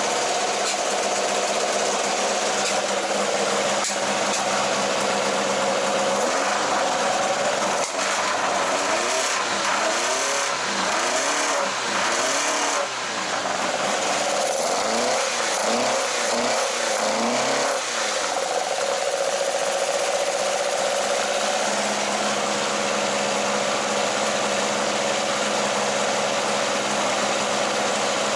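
Toyota 20-valve (5-valve) 4A-G engine running at idle, its exhaust going through a current-model 86/BRZ muffler. The sound wavers between about 6 and 18 seconds in, then settles back to a steady idle.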